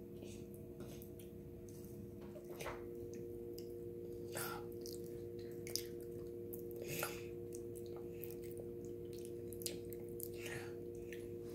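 Children eating soft steamed butternut squash from spoons: quiet chewing and a few short wet mouth smacks, over a steady faint hum.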